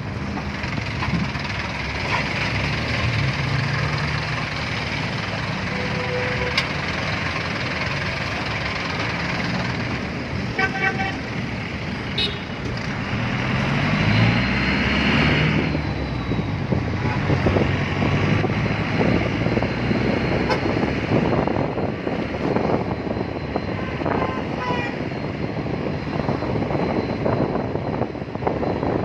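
Street traffic: vehicle engines and tyre noise running continuously, with an engine revving up about halfway through. Car horns toot briefly a few times.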